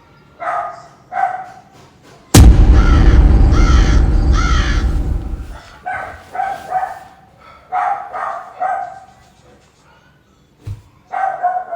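A dog barking in short, repeated yaps. About two seconds in, a loud sound starts suddenly and runs for about three seconds, carrying three pitched calls.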